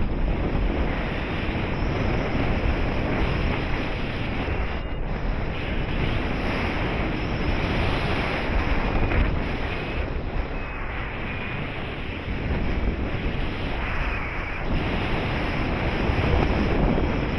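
Wind rushing over the microphone of a paraglider in flight: steady airflow noise that swells and eases slightly.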